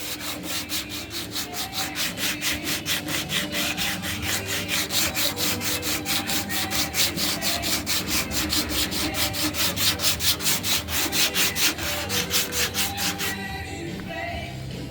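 Sanding block with sandpaper rubbed back and forth by hand over the primed steel of a 1959 El Camino tailgate, at a quick, even pace of about five strokes a second, stopping near the end.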